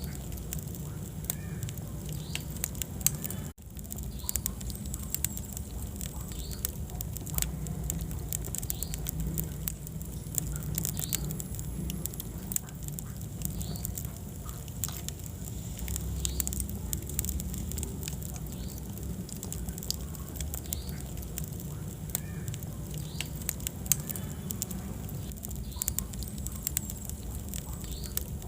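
Wood fire burning in a fireplace: dense, irregular crackles and pops over a steady low rumble of flame. The sound drops out for an instant about three and a half seconds in.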